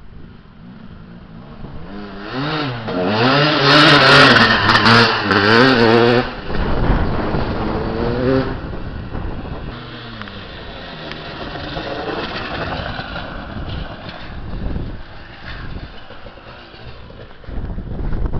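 KTM 380 SX two-stroke motocross bike riding past: the engine note builds, revs up and down loudest about four to six seconds in, revs once more, then fades away.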